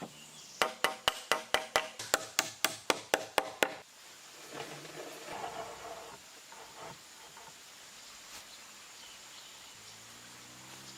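Hammer driving nails into wood: about a dozen quick, ringing strikes at roughly four a second, stopping a little under four seconds in. A softer scraping of wood follows.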